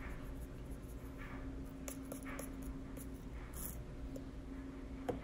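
Faint, scattered soft rustles and scrapes of food being handled while seasoning potatoes and carrots, over a steady low hum.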